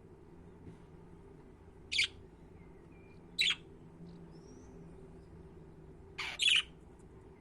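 Budgerigars giving short calls: one about two seconds in, another a second and a half later, and a quick double call near the end.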